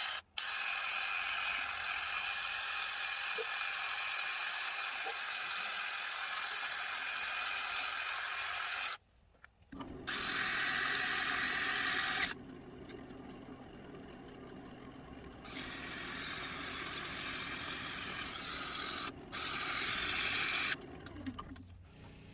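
Walnut turning being sanded on a running wood lathe: steady motor whir with a faint high whine under the rub of abrasive on the spinning wood. It comes in several stretches that stop and change abruptly.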